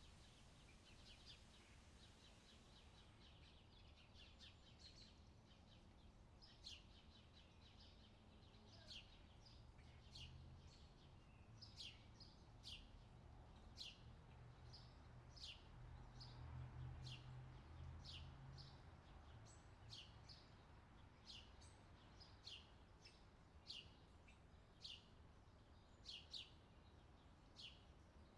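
Faint outdoor summer ambience: a bird giving short, sharp chirps about once a second over a soft steady hiss, with a low rumble swelling briefly in the middle.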